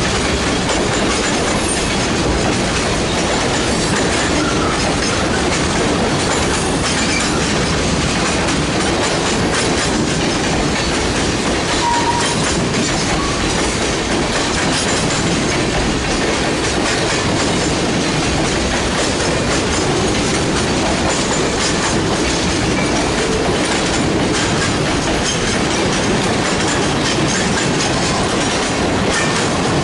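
Freight train's cars rolling past steadily on the rails, a continuous clatter of wheels on track.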